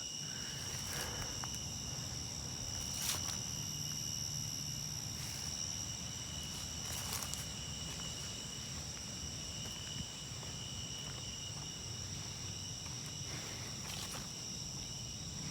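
Steady high-pitched insect trilling, two unbroken high tones, over a low background hum, with a few faint scuffs or footsteps.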